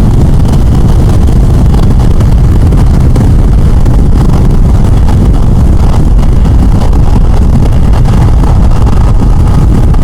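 Strong wind buffeting the microphone of a motorcycle at highway speed, a loud, steady rumble, with the Yamaha FJR1300's engine and road noise underneath.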